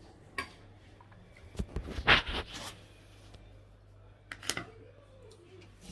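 Eating sounds from a palabok noodle mukbang: a few short, noisy slurps, bites and utensil clicks, the loudest about two seconds in and another near the end.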